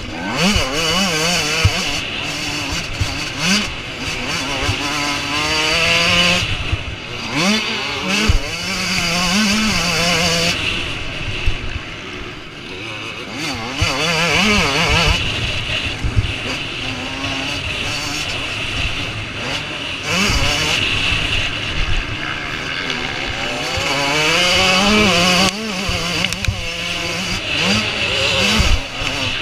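Motocross bikes racing: engines revving hard, climbing in pitch through the gears and dropping off again, over and over, as bikes come past one after another.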